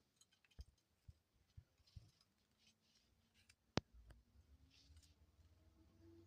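Near silence with faint, scattered soft clicks as two doves preen each other's feathers. There is one sharper click a little under four seconds in, followed by a faint steady hum.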